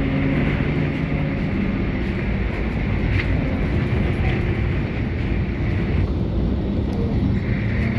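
SVARZ-6235 trolleybus riding, heard from on board: steady rumble and road noise. Steady whining tones fade out about a second in and a new whine comes in near the end.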